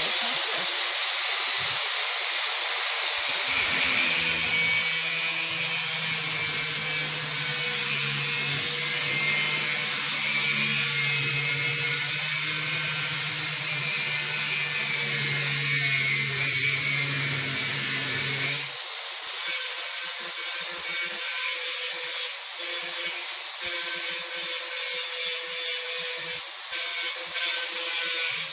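Right-angle die grinder grinding steel bracket metal: a loud, steady, high-pitched grind that starts abruptly. About 19 s in the low motor hum drops out and the grinding turns rougher and more broken up.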